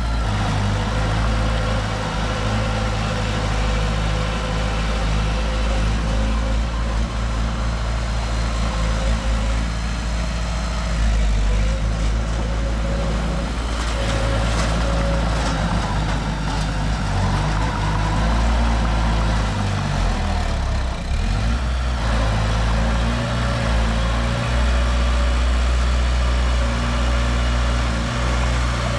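Heavy diesel engine of earthmoving machinery running steadily with a low hum, with some scratchy noise about halfway through.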